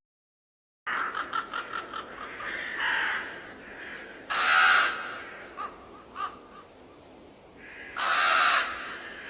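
Crows cawing: after a brief silence, a quick run of short caws, then two loud harsh caws about four seconds apart, with a few softer calls between.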